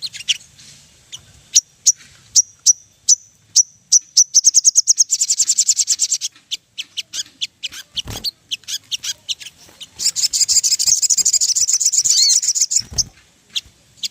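Sogon (ruby-cheeked sunbird) singing: sharp, high-pitched chips with two long, fast trills, played as a lure call to set other sogon singing. Two dull thumps cut in, one about eight seconds in and one near the end.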